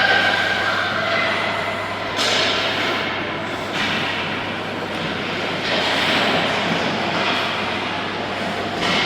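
Continuous scraping noise of play on an ice rink: skate blades cutting and stopping on the ice in surges, over a steady low hum.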